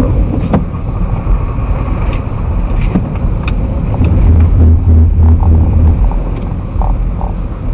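Car driving on a snow-covered road, heard from inside the cabin: a steady low rumble of engine and tyres, with a deeper hum swelling for a couple of seconds in the middle.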